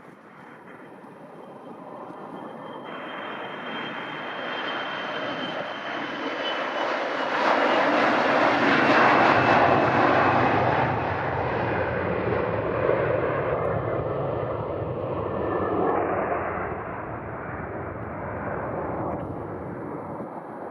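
Airliner's engines passing close by, building to a peak about nine seconds in and then fading, with a thin high whine that slides slowly down in pitch as it approaches.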